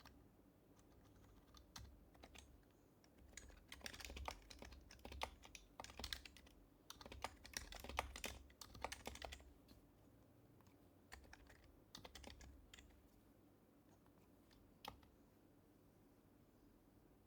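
Typing on an HHKB Professional HYBRID Type-S keyboard with quiet Topre switches: a faint patter of keystrokes in bursts, densest from about four to nine seconds in, a shorter burst around twelve seconds and a single keystroke near fifteen seconds.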